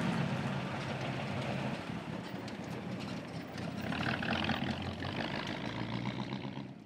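Engine of an old American sedan running as the car drives slowly past on a dirt road, a little louder about four seconds in as it goes by, then fading out.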